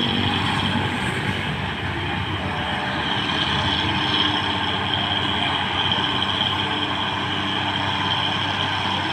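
Heavy diesel truck engine running steadily under load on a hill climb, with a steady high tone above it.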